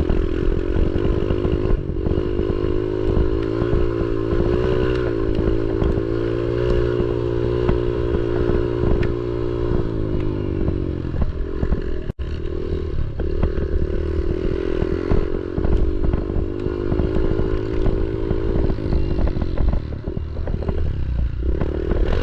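Pit bike engine running under throttle on a dirt track, its note wavering with the throttle over a constant clatter from the bike. The engine briefly drops off about halfway through, and near the end the note falls away as the bike slides out.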